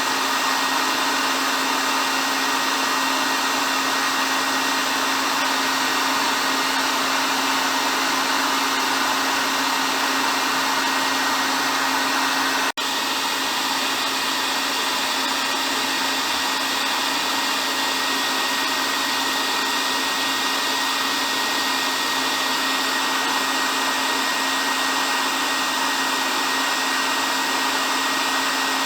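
Hair dryer running steadily: a constant rush of blown air with a low motor hum and a faint high whine. A split-second dropout about halfway through.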